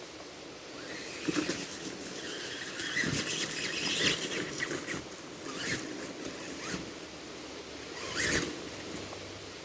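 Sticks and dry brush cracking and snapping under a Tamiya TXT-2 electric RC monster truck's tyres, in irregular bursts, with short whines from its motor and gears as it pushes through.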